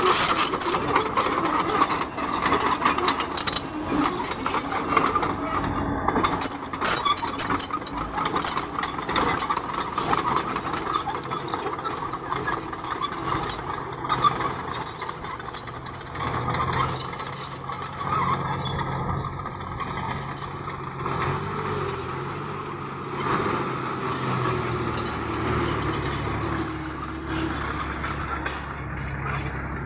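Bulldozer's diesel engine running while it works stone, with clanking and rattling throughout; a deeper, steadier engine drone builds from about halfway.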